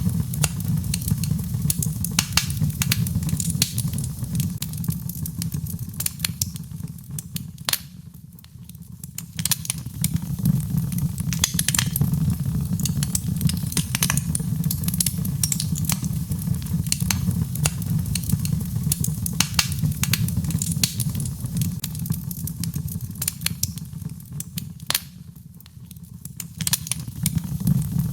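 Birchwood fire burning in a fireplace: frequent sharp crackles and pops over a steady low rumble of flame. The crackling eases off briefly about eight seconds in and again near the end.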